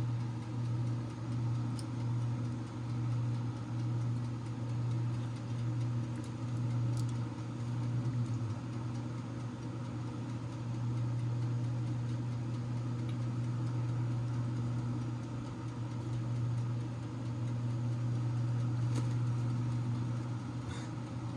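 A steady low mechanical hum, like an appliance motor or fan running, holding an even pitch throughout.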